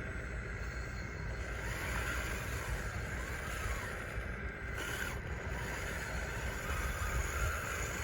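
Electric drive motors and gearboxes of an RC bulldozer whining, the pitch rising and falling as it works, over a low rumble.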